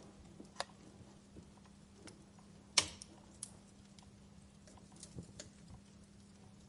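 Wood fire in a fireplace crackling: scattered sharp pops over a faint hiss, the loudest pop a little under three seconds in.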